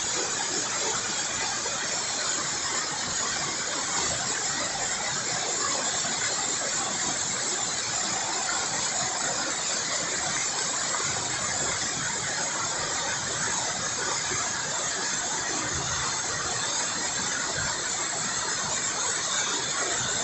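Waterfall in spate, heard close up at its foot: a steady rush of heavy falling water.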